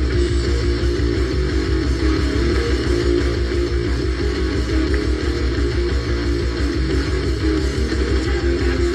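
Heavy stoner-metal rock music: distorted electric guitar and bass with drums, playing steadily.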